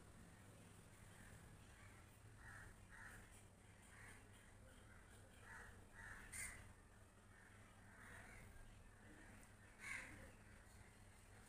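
Near silence: faint, short, repeated bird calls over a low steady hum, with two brief handling noises about six and ten seconds in.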